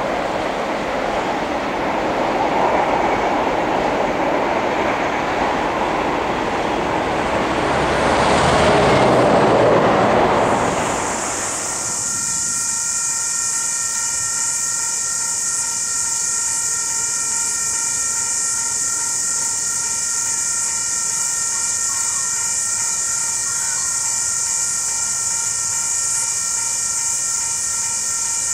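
A long KiwiRail container freight train rolling past, a steady rumble of wagons on the rails that swells about nine seconds in. Around eleven seconds in it cuts off abruptly, giving way to a quieter steady high hiss and faint steady whining tones as the EF-class electric locomotives approach on a curve.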